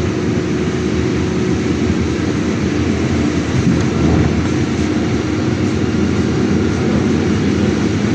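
Steady engine and road noise inside a moving city bus, a low rumble with a faint steady hum.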